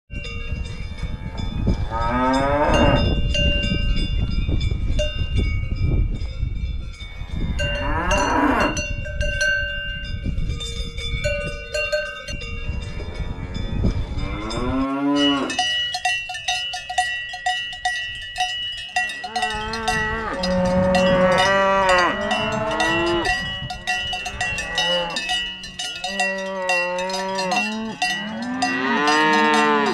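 Cowbells clanking and ringing on grazing cattle, with cows mooing now and then, most often in the second half. A low rumbling noise runs under the first half and stops suddenly about halfway.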